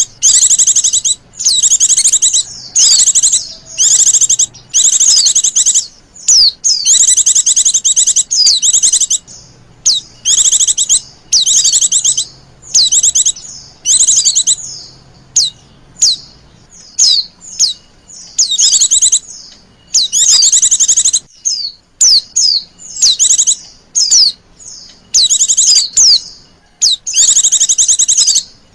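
Female white-eye (pleci) giving its soliciting 'lenjeh' call: rapid, high-pitched chattering phrases, each under a second to about a second and a half long, repeated again and again with short gaps.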